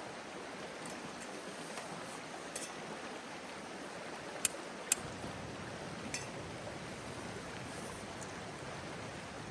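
River water running steadily, with two sharp clicks about half a second apart near the middle.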